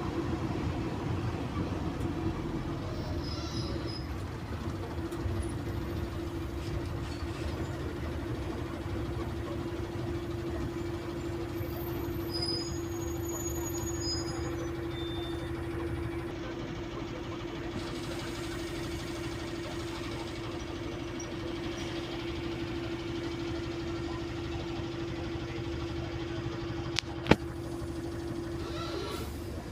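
Zhongtong LCK6150D bus's Cummins diesel engine running steadily, a low rumble with a constant whine over it that stops shortly before the end. One sharp click near the end.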